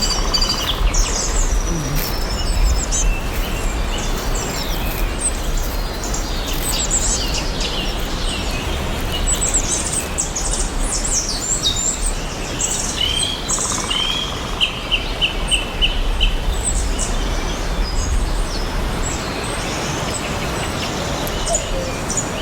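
Birds chirping and calling, many short overlapping chirps and trills, over a steady noisy background with a low hum underneath.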